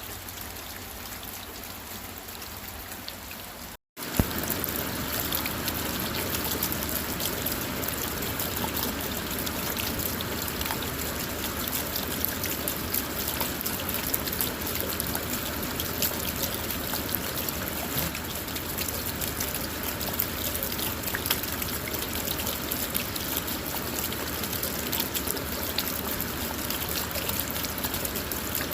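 Steady rain on a car, an even hiss full of small drop ticks. About four seconds in it cuts out for an instant and comes back louder.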